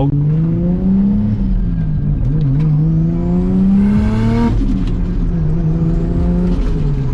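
Nissan Stagea's engine pulling hard under full throttle, its pitch climbing steadily, then dropping sharply about four and a half seconds in at a gear change or lift. After that it holds and eases off near the end, with a faint high whine rising and falling along with the revs.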